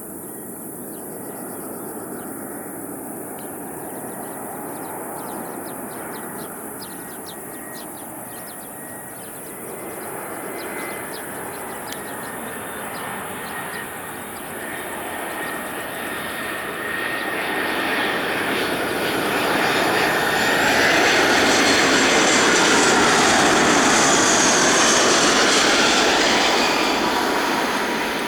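Airbus A320-214 jet engines on landing approach, the noise building steadily and peaking loud about three quarters of the way through as the airliner passes close, then starting to fall away near the end. A steady high engine whine runs through it. Crickets chirp faintly in the first third.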